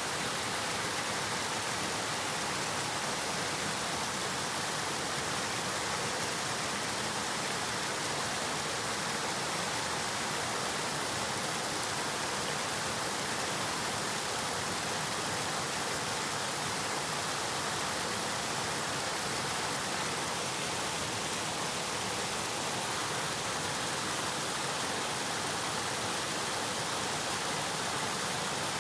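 River water flowing, a steady rushing hiss without breaks or changes.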